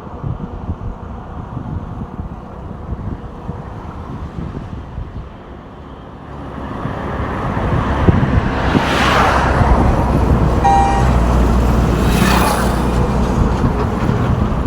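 Road traffic with trucks: a low engine rumble that builds from about halfway, then two vehicles swooshing past a few seconds apart, with a brief high tone between the two passes.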